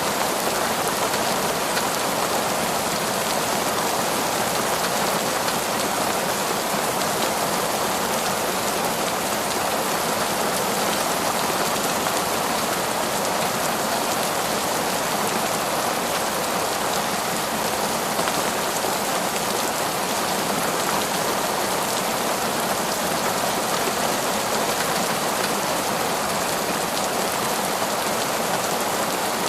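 Heavy, torrential rain falling steadily, a dense even hiss of countless drops with no breaks or thunder.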